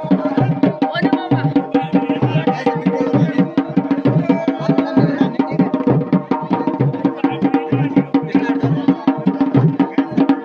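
Dhol and damau, the paired Garhwali folk drums, played together in a fast, steady rhythm with dense, even strokes throughout.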